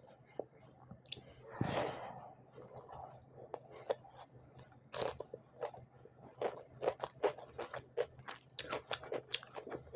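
Close-miked chewing, then crisp crunching bites of raw cucumber from about halfway, several sharp crunches a second.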